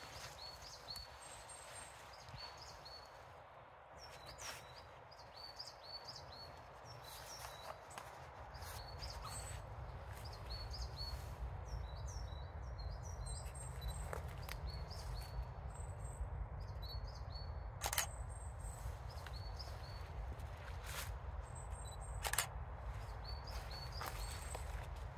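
Small birds calling: many short chirps repeated throughout, with quick high triple notes among them, over a steady outdoor hiss. A low rumble comes in about a third of the way through, and a few sharp clicks stand out in the second half, two of them loudest, about four seconds apart.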